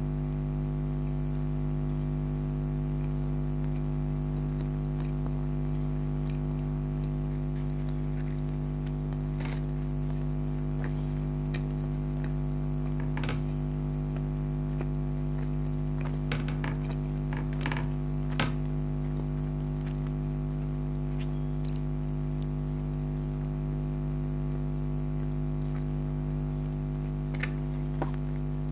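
Small, scattered clicks and smacks of someone eating, with a cluster of them about two-thirds of the way through. A steady electrical-sounding hum runs underneath and is the loudest thing throughout.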